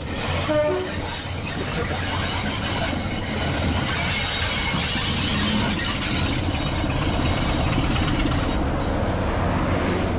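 Vintage train running into the station: steady noise of the locomotive and its carriages rolling on the rails, building a little after a few seconds, with a few brief tones in the first second.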